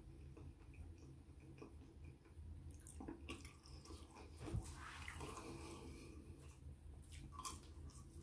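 Faint wet chewing with small mouth clicks, over a low steady hum.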